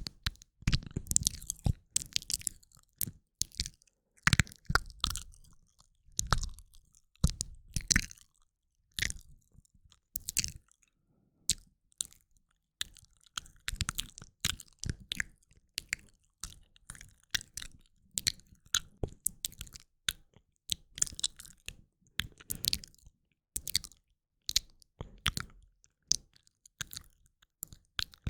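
Close-miked ASMR mouth sounds: wet clicks, smacks and tongue pops coming in quick irregular clusters with short pauses between them.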